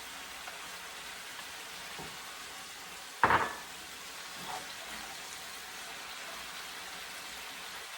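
Chicken and carrot frying in oil in a pan, a steady sizzle, with one brief loud sound about three seconds in as mushrooms go in or a utensil strikes the pan.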